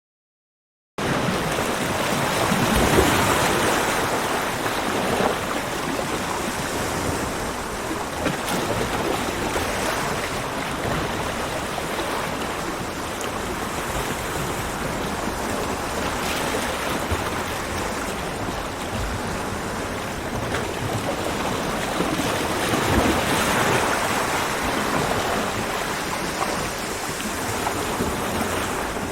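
Ocean waves breaking and washing on a beach, a steady rush of surf that swells and eases, starting abruptly about a second in. The surf grows louder about three seconds in and again near twenty-three seconds.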